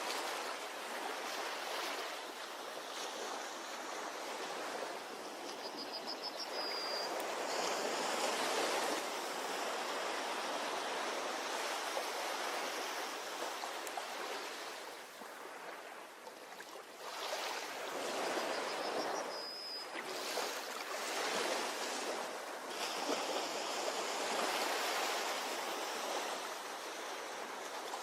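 Ocean waves washing onto a shore, swelling and ebbing every few seconds with a brief lull midway. A short, high, rising chirp is heard twice.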